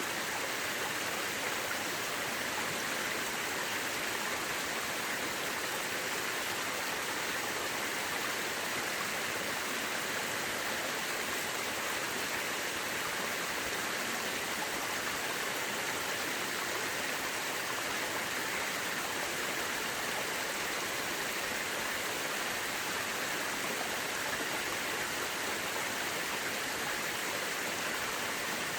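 Mountain river rushing steadily over rocks: an even, unbroken hiss of flowing water.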